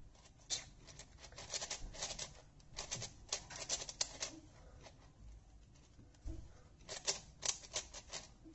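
Plastic layers of a heavily lubed 5x5 speed cube being turned by hand: quick runs of soft clicks, with a short pause in the middle.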